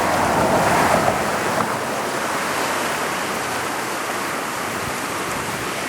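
Rushing floodwater of a creek in flash flood, a steady noisy rush, a little louder in the first second.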